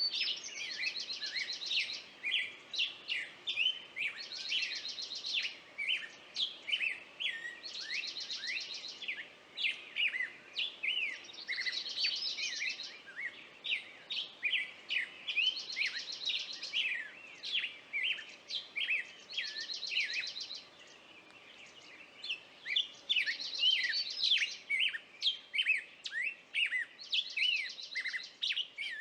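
Songbirds singing and chirping: a stream of short, quick chirps, with a fast trilled phrase higher in pitch repeated about every four seconds, and a brief lull just past two-thirds of the way through.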